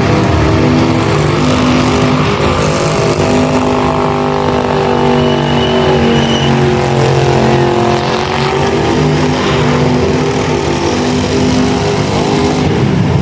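Car engine held at high revs in a burnout, running loud and steady with its pitch wavering slightly.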